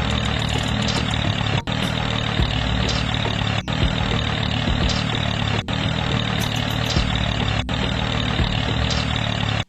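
An engine running steadily at idle, with a brief break about every two seconds, and cutting off abruptly at the end.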